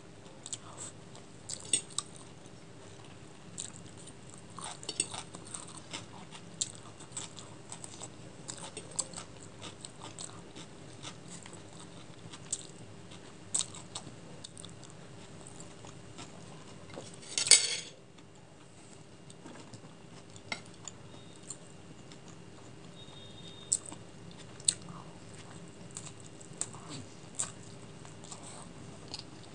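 Close-miked chewing and mouth sounds of someone eating chicken chow mein, with small clicks of a metal fork against a ceramic plate. One louder burst of noise lasts about half a second around seventeen seconds in.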